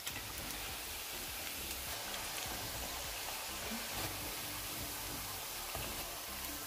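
Marinated beef pieces deep-frying in hot oil in a pan: a steady, even sizzle with a few faint crackles.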